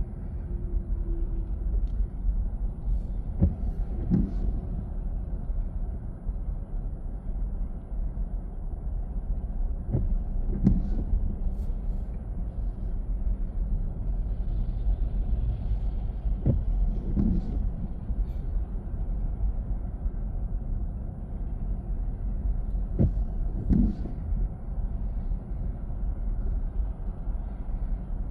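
Car driving on the road: a steady low rumble of road and tyre noise, with a short thump every six or seven seconds.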